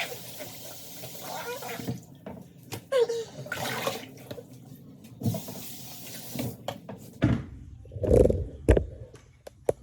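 Water running from a tap for about two seconds and then shut off, followed by scattered clicks and knocks and a few heavy thuds near the end.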